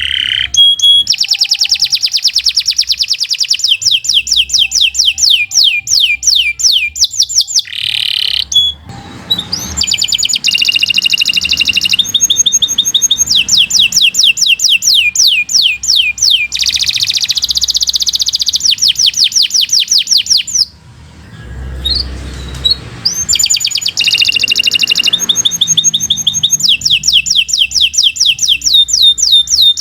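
Domestic canary singing a long, continuous song of rapid trills and repeated sweeping notes, with a short pause about two-thirds of the way through.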